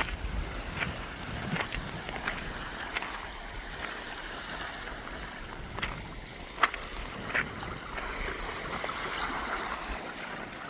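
Ocean surf washing on a beach, a steady rushing wash, with low wind rumble on the microphone in the first couple of seconds and scattered sharp clicks throughout.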